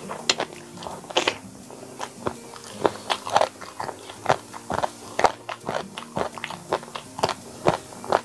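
Close-miked chewing of a mouthful of chicken and rice, with irregular sharp crunches and wet mouth clicks, a few a second.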